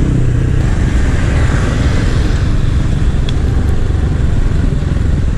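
Small-capacity motorcycle riding along: steady engine rumble mixed with wind rushing over the microphone.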